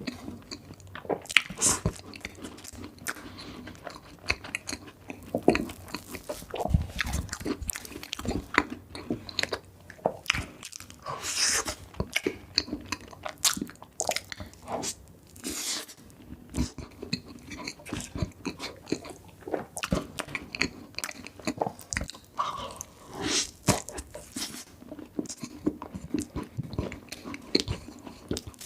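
Close-miked eating: a person biting into and chewing sweet baked treats, with irregular crunches and chewing clicks.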